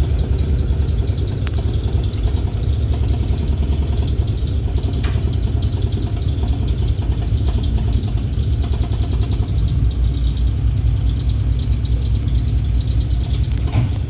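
E1-class tram 6027 running with a deep, steady rumble and a fast continuous rattle of vibration, an abnormal heavy vibration this tram shouldn't be making.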